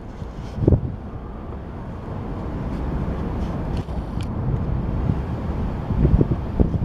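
Low rumble of an approaching subway train that builds over a few seconds, with a faint brief high squeal about four seconds in and a few short thumps near the end.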